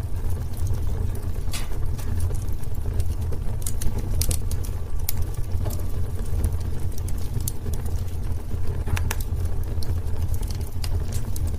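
Wood fire burning in a fireplace: a steady low rumble of the flames with irregular crackles and pops of burning wood.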